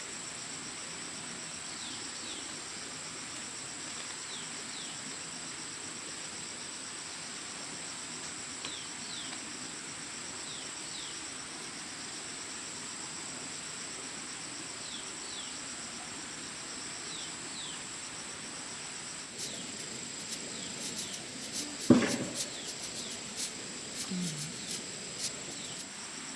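Insects trilling steadily at a high pitch, with short falling chirps now and then. About three-quarters of the way in a run of sharp clicks begins, with one loud knock among them.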